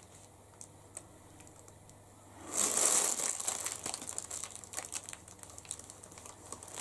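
Packaging crinkling as it is handled, starting about two and a half seconds in after a quiet spell and going on as an uneven crackle of small ticks.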